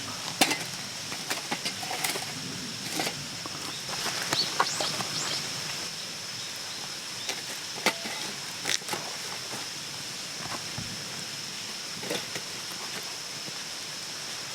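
Outdoor forest ambience: a steady high-pitched drone with scattered short clicks, knocks and rustles, and a few brief chirps about four to five seconds in.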